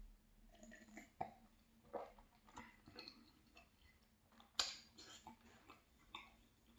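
Faint close-up chewing: soft wet mouth sounds and small crunchy clicks, with one sharper click about four and a half seconds in.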